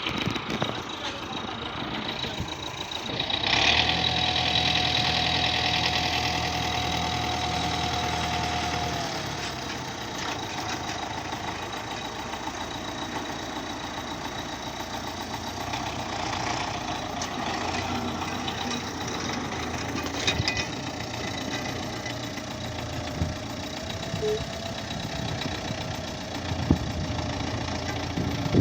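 MTZ-82 (Belarus) tractor's four-cylinder diesel engine running. A few seconds in it gets louder and a steady whine joins it for about five seconds, then it settles back to an even running sound.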